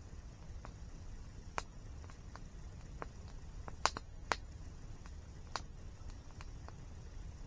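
Campfire crackling: a scatter of sharp pops and snaps, the loudest two close together just after the middle, over a steady low rumble.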